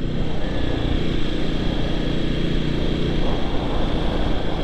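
Kawasaki motorcycle engine running at a steady cruising pitch while riding, over a constant rush of wind and road noise.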